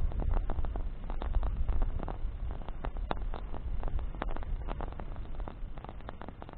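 Wood campfire burning: branches crackling with many irregular sharp pops over a steady low rumble.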